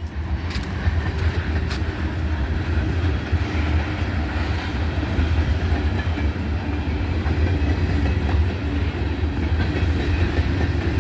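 Diesel switcher locomotive moving close by: a steady low engine rumble, with a few sharp wheel-and-rail clicks in the first couple of seconds.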